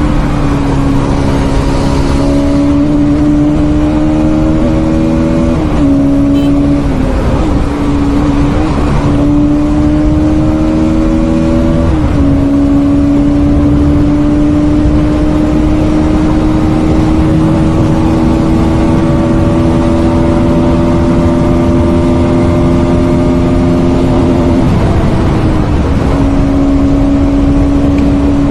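Bajaj Pulsar NS200's single-cylinder engine pulling hard at speed, its note climbing steadily and dropping sharply at each of four upshifts. Wind and road noise sit underneath.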